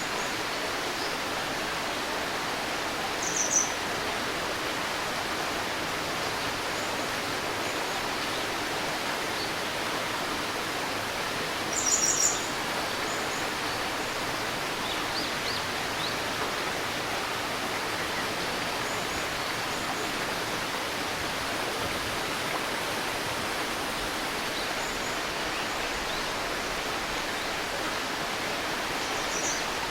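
A shallow river babbling steadily, with short high bird chirps a few times: a couple about three seconds in, a louder cluster of calls around twelve seconds, a few faint ones soon after, and another near the end.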